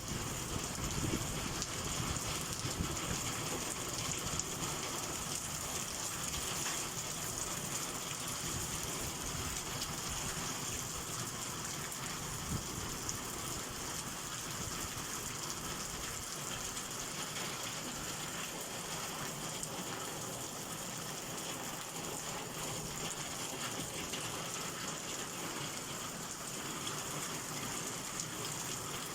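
Heavy summer downpour: rain pouring steadily, a continuous hiss dense with the patter of drops striking surfaces.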